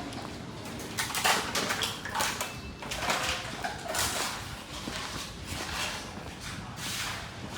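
Footsteps on a wooden pier's boards: a run of irregular knocks and scuffs, several a second.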